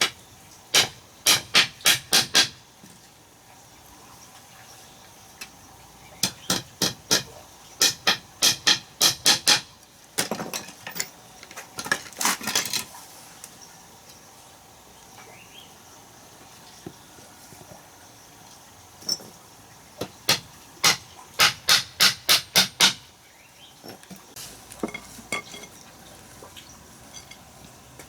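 Sharp knocking strikes in quick runs of five to eight, about three a second, with pauses of several seconds between runs.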